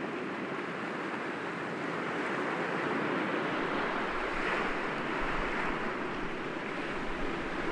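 Ocean waves breaking gently against rocks, a steady wash of surf that swells softly now and then.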